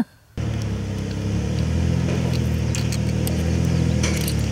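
An engine running steadily at a constant speed, with a few light clicks and rattles over it; it starts and stops abruptly.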